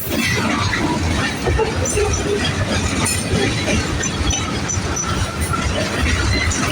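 Freight train rolling past: a steady rumble of steel wheels on rail, with short high-pitched wheel squeals scattered through it.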